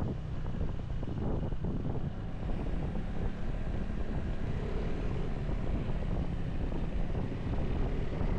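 Steady wind rush buffeting the microphone while riding a motorcycle, over a low rumble of road and engine noise.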